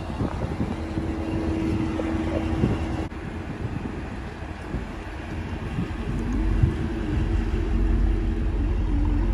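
Dodge Charger SRT 392's 6.4-litre HEMI V8 running at low speed, its exhaust rumble growing louder and deeper about six seconds in as the car pulls away.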